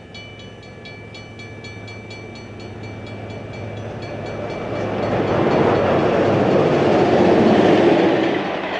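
Passenger train approaching and passing. A steady low hum at first, then rumble and rail noise build, loudest about six to eight seconds in, and ease off near the end.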